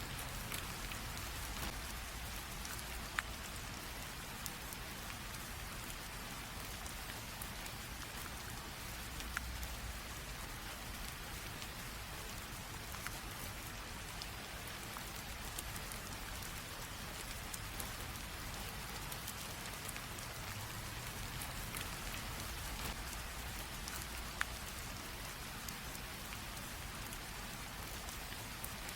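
Steady light rain drizzle pattering on a surface, with scattered individual drops ticking now and then.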